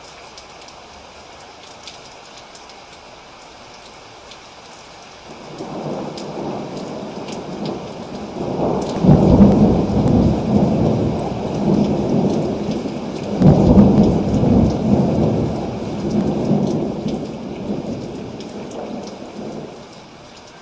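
Steady rain falling, with a long roll of thunder that builds about a quarter of the way in, peaks twice in the middle and dies away near the end.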